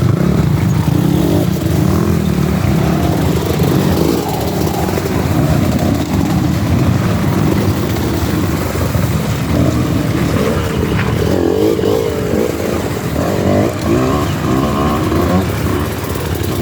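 Dirt bike engines revving and easing off, the pitch rising and falling unevenly as riders work the throttle through rough going.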